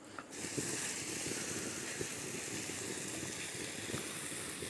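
Mushroom curry sizzling in a frying pan over a wood fire: a steady hiss that comes in suddenly a moment in, with a crackly bubbling texture and a few faint ticks.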